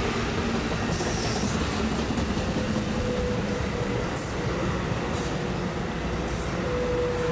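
Amtrak Pacific Surfliner passenger train rolling past with a steady rumble of wheels on rail, broken by about six short high-pitched bursts.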